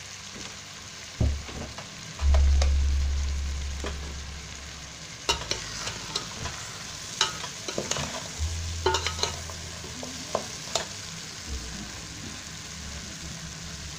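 Goat feet sizzling as they sauté in fish sauce in an aluminium pot, a metal spoon stirring and scraping them, with sharp clinks of the spoon against the pot. A low rumble starts about two seconds in and fades away.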